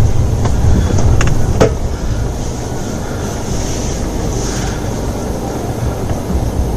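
Steady low road and engine rumble of a car being driven, heard from inside the cabin, with a few faint clicks in the first two seconds.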